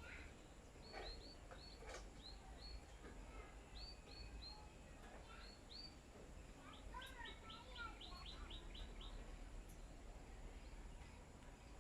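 Small birds chirping faintly in short high notes, in twos and threes, then a quick run of chirps a little past the middle.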